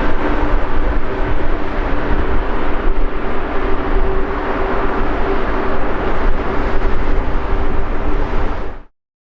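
Four-engine Airbus A380 jet engines running loud, a steady rushing roar with a faint hum, cutting off abruptly near the end.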